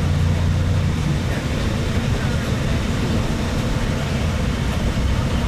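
Steady engine drone and road rumble of a vehicle in motion, heard from inside. A low hum in it drops away about a second in, leaving an even rumble.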